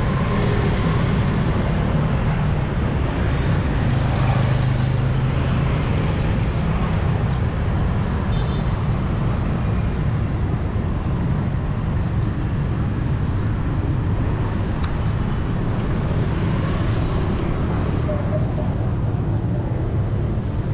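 Busy city street traffic: a steady wash of vehicle engines and tyre noise with a heavy low rumble.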